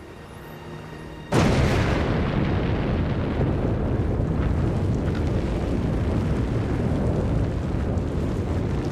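Sakurajima volcano erupting: a sudden blast a little over a second in, then a steady deep rumble of the ongoing eruption.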